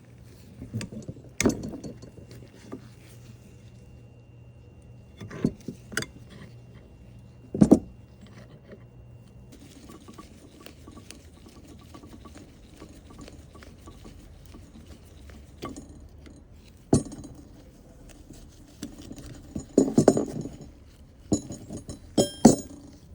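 Scattered metallic clinks and knocks of hand tools and parts being handled during work on a car's fuel pump and filter, at irregular intervals and several in quick succession near the end. A faint steady hum stops about nine seconds in.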